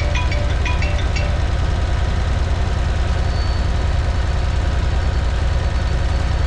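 Heavy equipment engine idling steadily, with an even low throb.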